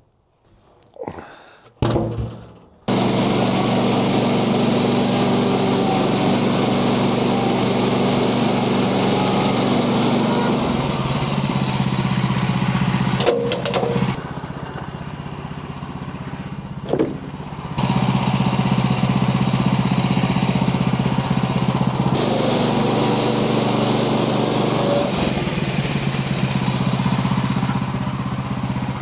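A few knocks, then an engine starts up about three seconds in and runs steadily, dropping quieter for a few seconds around the middle before picking up again.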